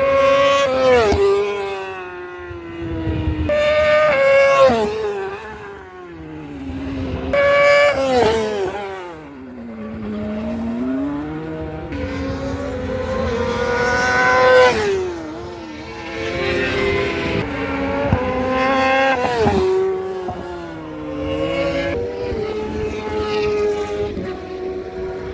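High-displacement motorcycle engines being warmed up, revved repeatedly: the pitch climbs and falls with each throttle blip, about five times over.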